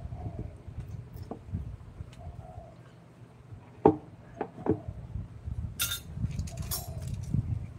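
Hand tools knocking on wood during woodcarving work: three sharp knocks about four seconds in, then two brief clinking scrapes near the end, over a steady low hum.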